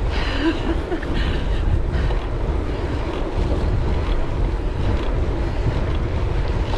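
Wind buffeting an action-camera microphone on a moving bicycle: a steady, gusty low rumble.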